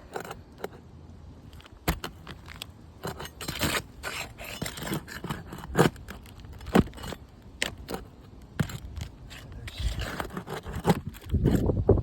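A metal tool scraping and prying under asphalt roof shingles to work the nails loose, with sharp metallic clicks at irregular intervals and a louder stretch of scraping near the end.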